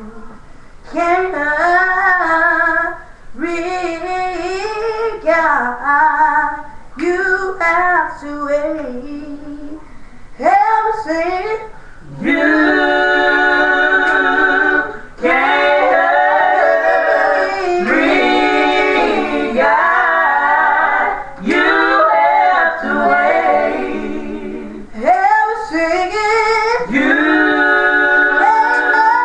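A woman singing a gospel song solo, in drawn-out phrases with long held notes that slide and bend in pitch.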